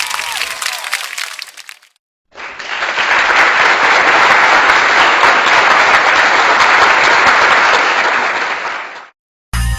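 Applause sound effect: a crowd clapping steadily for about seven seconds, then cutting off abruptly. Before it, the end of an earlier crowd sound fades out.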